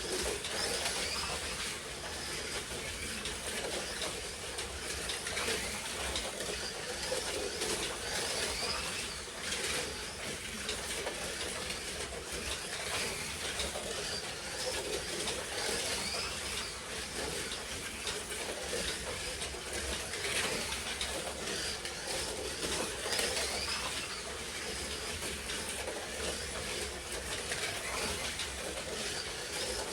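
Slot cars lapping a track: their small electric motors whine up and down as they accelerate and slow through the lap, over a steady running rattle of the cars on the track.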